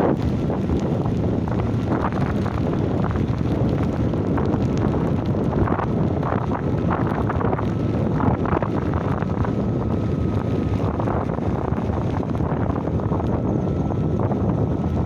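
Wind buffeting the phone's microphone in heavy monsoon rain: a steady, loud rushing with many scattered taps mixed in.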